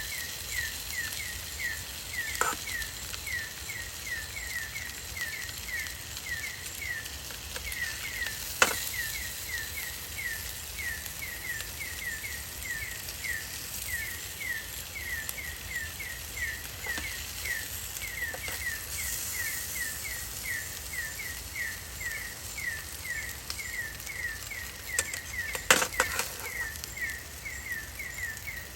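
Forest ambience with a small animal's call: a short, high, falling chirp repeated steadily about two and a half times a second over a soft hiss. A few sharp clicks cut through, the loudest near the end.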